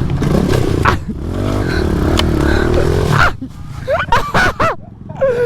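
Pit bike engine revving, its pitch rising over a few seconds before it drops off abruptly about three seconds in. A few short yelps follow near the end.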